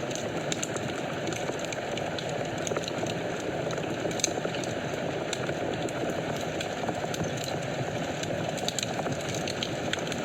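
Wood fire burning in a fireplace: a steady hiss of flames with frequent small crackles and pops scattered through it.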